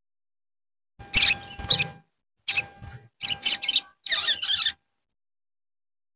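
Sogon bird calls played as a lure recording: a run of about eight short, sharp, high chirps in quick groups, set against complete silence.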